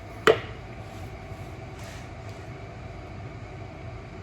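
A single sharp knock about a third of a second in, over a steady low hum of room noise.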